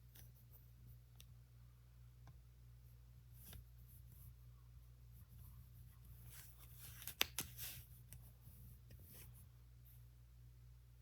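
Faint clicks and rattles of plastic Lego pieces being handled and pressed together, with a cluster of sharper clicks about seven seconds in, over a low steady hum.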